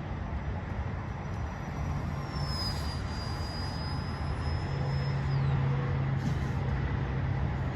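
RC jet's engine whining in flight over a steady rumble; the high whine drops in pitch about two and a half seconds in, slides away about five and a half seconds in, and comes back near the end as the throttle changes.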